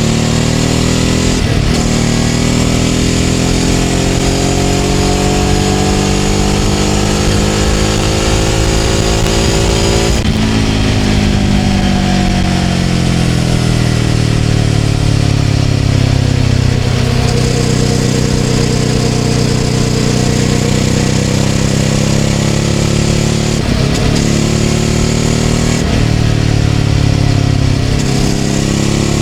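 Ducati Scrambler 800's air-cooled L-twin through a Leovince LV-10 exhaust, heard on the move. Engine pitch climbs steadily for about ten seconds, changes abruptly, then falls and holds steady, with a few short breaks near the end.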